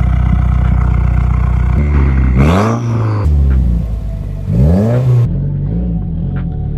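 Turbocharged Subaru WRX flat-four engine through a Tomei exhaust, running steadily and then revving up twice, about two seconds in and again near five seconds, the pitch climbing each time. About five seconds in the sound turns abruptly duller.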